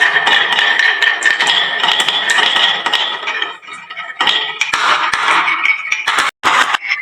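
Marbles rolling and clattering down a wooden marble run: a dense stream of small clicks and clinks with a light ringing, thinning to a lull about halfway through, then picking up again.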